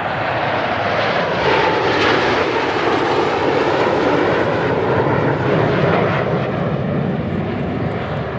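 Formation of Kawasaki T-4 jets passing by with their turbofan engines running. The jet noise swells over the first second or two, stays loud through the middle, and eases away near the end.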